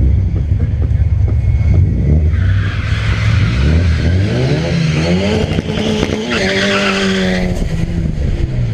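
Turbocharged drag-racing car engine rumbling, then revving up with tires squealing as they spin from about two seconds in; the revs hold, then drop near the end as the squeal stops.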